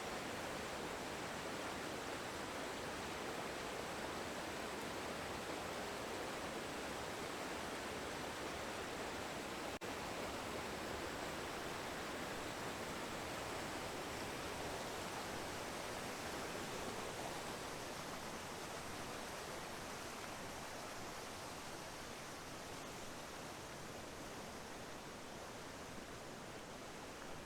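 Steady rushing noise with no tone or rhythm, easing off slightly about two-thirds of the way through.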